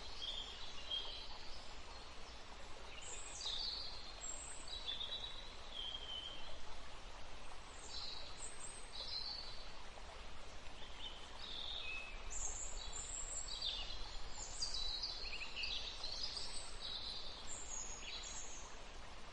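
Several songbirds singing, short high chirps and trills coming one after another, over a steady faint background hiss.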